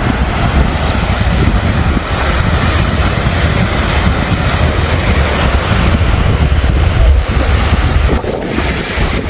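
Strong wind buffeting the microphone with a loud low rumble, over the steady wash of ocean surf.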